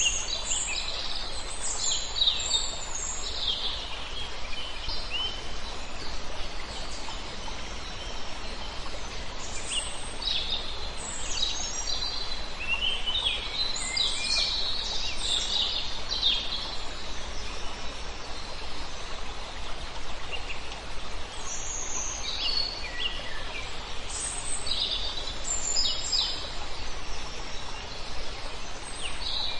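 Small birds chirping and calling in scattered bursts, busiest in the first few seconds, again from about ten to seventeen seconds in, and near the end, over a steady background hiss.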